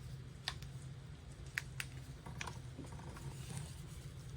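A few scattered light clicks and taps of handling noise over a faint, steady low hum.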